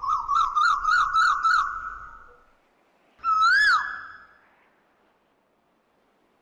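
A bird calling: a quick warbling trill of about six notes, then a single whistled note about three seconds in that swoops up and drops away.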